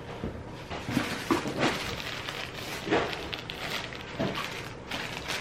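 Plastic packaging and clothing rustling and crinkling in irregular bouts as the items are handled.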